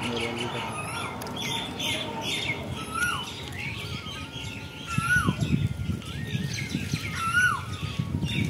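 Birds chirping in many short notes, with one call that rises then falls repeated about every two seconds. A low rumble comes in from about five seconds in.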